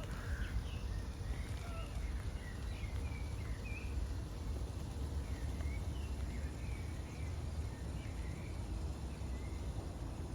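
Small birds chirping outdoors, with many short, high calls scattered through, over a steady low rumble.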